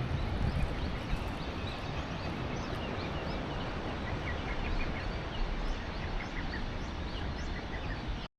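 Steady wind and surf noise with many small birds chirping, short high calls coming thick and fast, busiest in the second half. The sound cuts off suddenly near the end.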